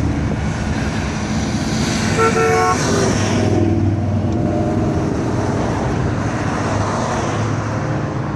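Classic cars driving slowly past with engines running steadily, and a car horn giving a short toot about two seconds in.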